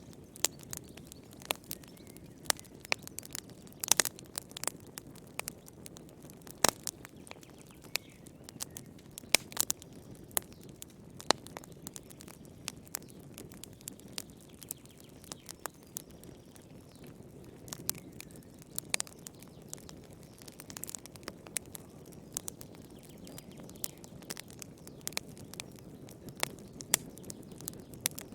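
Wood fire burning in a fireplace: irregular sharp crackles and pops over a soft low rumble of flame.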